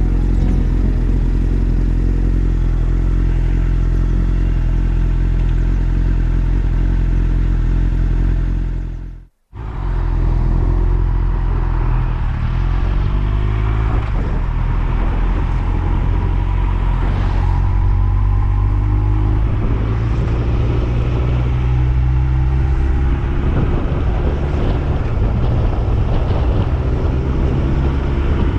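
Yamaha YZF-R1's inline-four engine running under way. There is a brief cut to silence about nine seconds in; after it, the engine pitch rises and falls with the throttle and gear changes.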